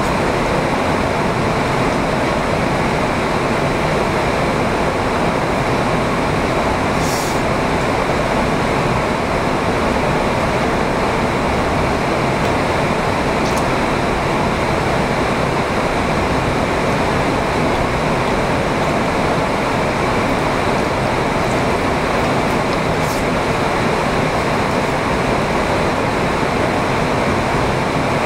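Steady rain, a constant even rushing hiss, with a few faint clicks.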